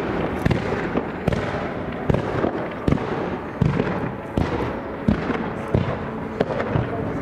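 Fireworks going off in a steady series of sharp reports, about one every three-quarters of a second, with a continuous hiss between them.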